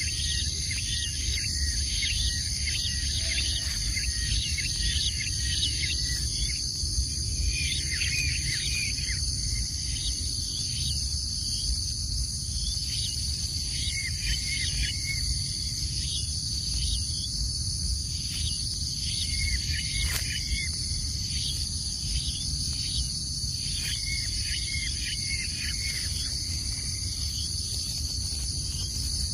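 Steady chorus of insects droning high and continuous, with clusters of short, quick chirps coming and going and a low rumble underneath.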